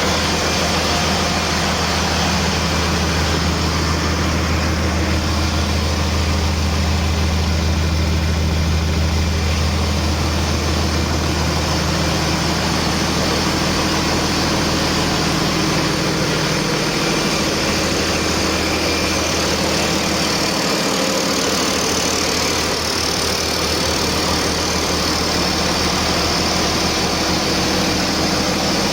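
Paccar MX13 12.9-litre inline-six truck diesel idling steadily on a test run.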